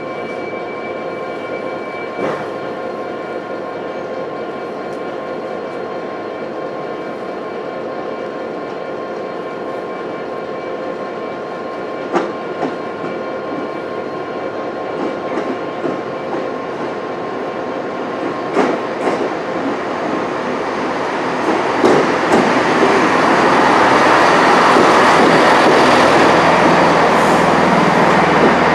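GWR passenger train running into the station. A steady hum with a few sharp clicks gives way, about twenty seconds in, to the louder rush of its wheels and running gear as it comes alongside the platform.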